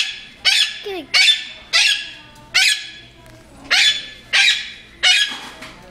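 Talking bird giving a run of about ten short, sharp, loud calls, roughly one every half second.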